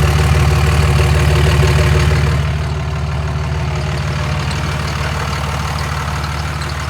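24-valve Cummins diesel idling steadily through an open down pipe that isn't connected to the exhaust. It gets somewhat quieter about two seconds in.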